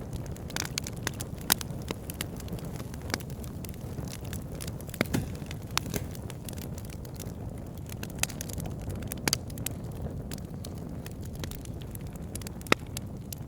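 Campfire crackling: sharp, irregular pops and snaps over a steady low rumble of burning, with one especially loud pop near the end.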